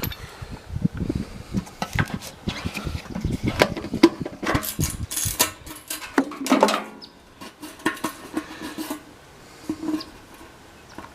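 Handling noises around the sawmill's fuel tank while the gas is checked: scattered light metallic clinks and knocks, with a run of low thumps through the first half.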